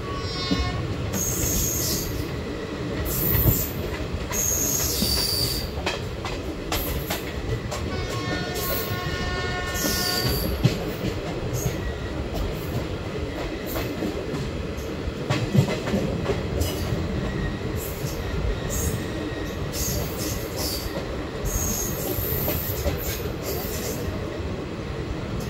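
ICF passenger coach running along the track: a steady rumble of wheels on rail, cut through again and again by short, high metallic screeches from the wheels. Twice, near the start and again about eight to ten seconds in, a longer pitched squeal or wail rises above the rumble.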